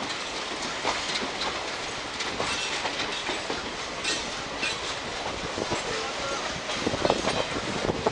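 Passenger train running along the track, heard from an open coach doorway: a steady rush of wheel and wind noise with irregular clicks and knocks from the wheels and coaches.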